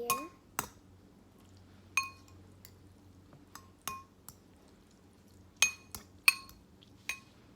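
A utensil clinking against a bowl of noodles, about nine sharp ringing clinks at uneven intervals, as the hot sauce is stirred in.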